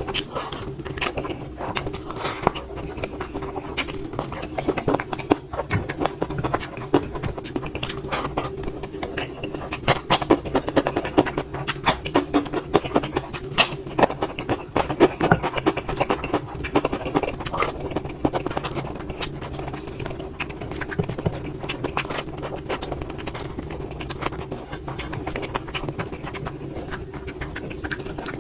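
A person eating up close: chewing and mouth clicks come irregularly, several a second, over a steady low hum.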